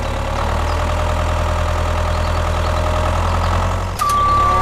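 Engine idling steadily with a low hum. About four seconds in, a steady high tone starts suddenly.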